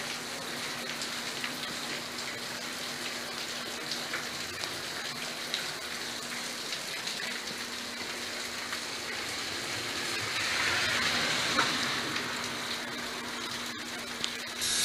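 Rain falling steadily, with water dripping and trickling in through a leaking ceiling as scattered small ticks. About ten seconds in, a louder rush rises and fades over a couple of seconds.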